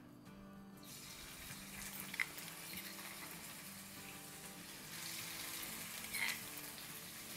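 Pounded chili and black-pepper paste sizzling faintly in hot oil in a wok, the sizzle starting about a second in. There are two light knocks, one in the first half and one near the end.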